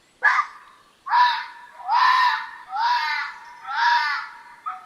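Red fox barking: one short bark, then four more barks about a second apart.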